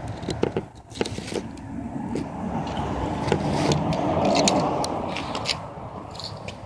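Kia Rio engine with a custom exhaust starting from cold: the exhaust note swells as the revs flare up after it catches, then eases back toward idle, with scattered clicks and rattles.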